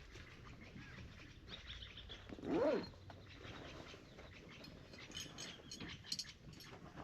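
A single drawn-out animal call that rises and then falls in pitch about two and a half seconds in, with small birds chirping faintly later on.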